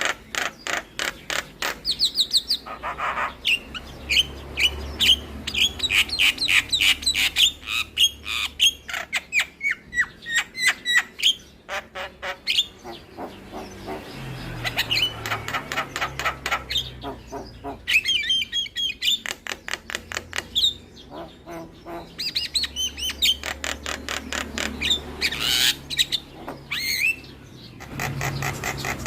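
Javan myna (jalak kebo) singing a long, varied song: rapid chattering runs of clicks and harsh squawks mixed with whistled chirps, broken by brief pauses.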